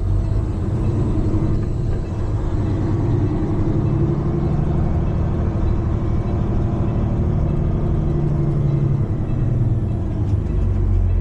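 Heavy diesel truck engine running steadily, with a deep even drone.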